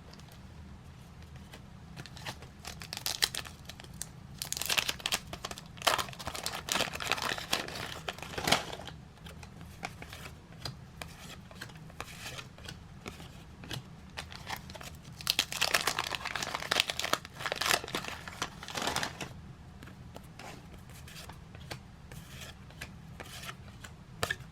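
Trading card pack wrappers being crinkled and torn open by hand, in two bouts of rustling a few seconds long, the first about three seconds in and the second around fifteen seconds in.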